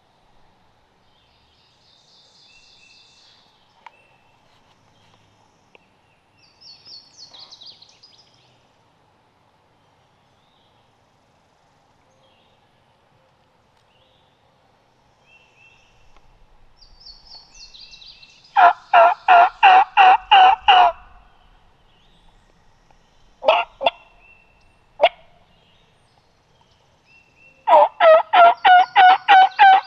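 Turkey call sounding loud and close: a run of about seven hen-turkey yelps at roughly three a second, two single yelps, then a second run of about nine yelps near the end. Faint songbird chirps come before the first run.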